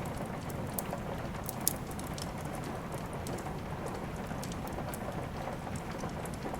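Steady hiss of rain mixed with the irregular crackling and popping of a wood fire, with one sharper pop about a second and a half in.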